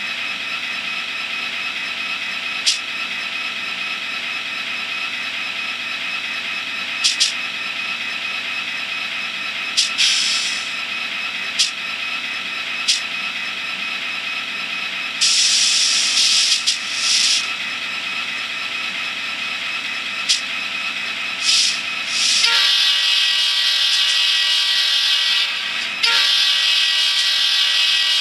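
Miniature EMD F40PH diesel sound from an ESU LokSound Micro decoder, played through the model's tiny speaker: a steady engine hum with scattered sharp clicks and short air hisses. About two-thirds of the way in a louder, steady multi-tone sound takes over, breaking off briefly once before resuming.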